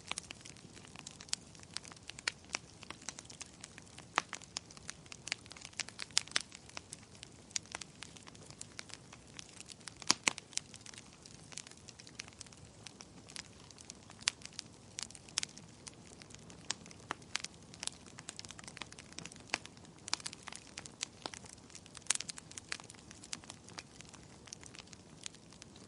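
Wood fire crackling in a fireplace: irregular snaps and pops over a faint steady hiss, with a few louder pops about ten seconds in and again past twenty seconds.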